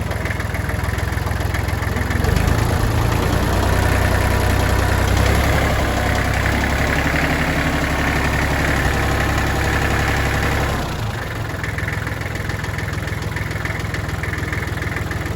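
Tractor engine running, growing louder about two seconds in and dropping back to a steadier idle about eleven seconds in.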